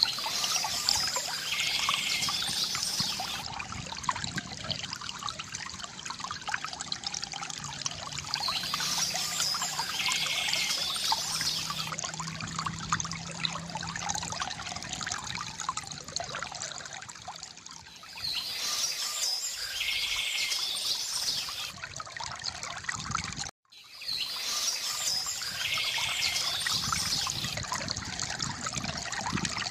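Stream water trickling and pouring steadily, with a songbird singing a phrase four times. The sound cuts out suddenly for a split second about two-thirds of the way through.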